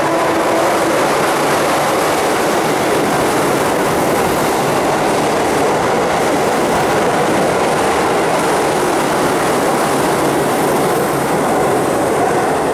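A Keihan 8000 series express train passes straight through an underground station platform without stopping, a loud, steady rush of wheels on rail and moving air.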